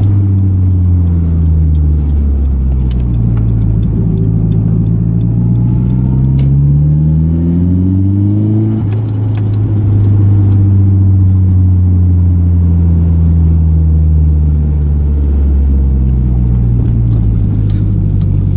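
Nissan Silvia's turbocharged SR20DET four-cylinder engine heard from inside the cabin while driving. The engine note falls at first and holds low, then climbs in pitch for a few seconds and drops sharply about halfway through, as on an upshift, before running at steady cruising revs.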